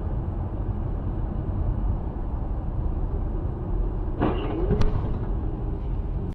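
Steady low rumble of a moving vehicle. About four seconds in a brief wavering tone sounds, followed by a single sharp click.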